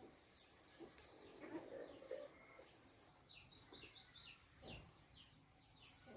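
A small bird calling faintly: a quick series of about six short, high chirps, each falling in pitch, a little past halfway, with a few fainter chirps after.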